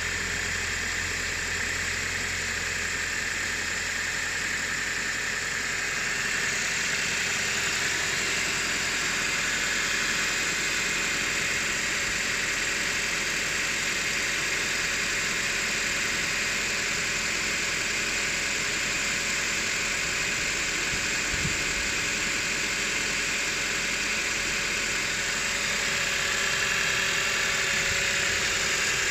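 Audi A6 C6's 2.0 TFSI (BPJ) turbocharged four-cylinder idling steadily soon after a cold start, with a steady high hiss over the engine; the deep low hum eases about six seconds in.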